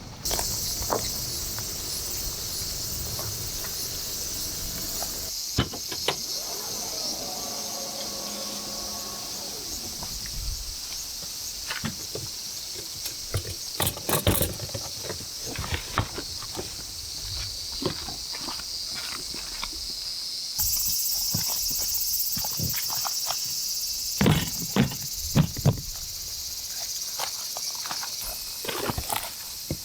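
High, steady chorus of insects, which gets louder about two-thirds of the way through, with scattered small clicks and knocks.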